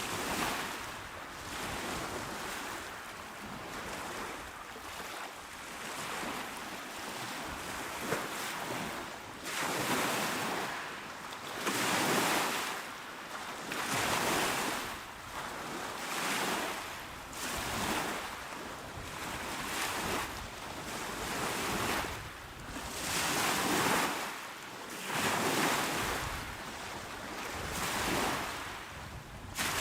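Calm sea waves breaking and washing onto a shore. At first it is a fairly even wash; from about a third of the way in it swells and fades in surges every couple of seconds.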